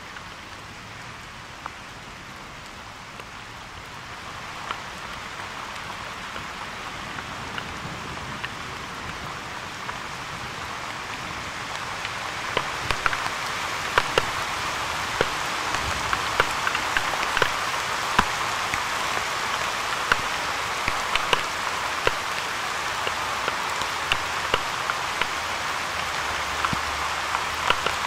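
Thunderstorm rain falling steadily, growing heavier about 4 seconds in and again around twelve seconds in, when many sharp ticks of individual drops striking close by start to stand out.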